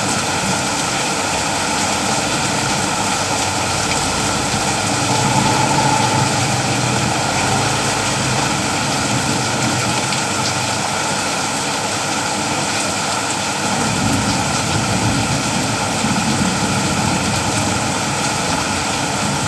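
Steady rain falling, a dense even hiss. A low rumble swells under it about five seconds in and again about fourteen seconds in.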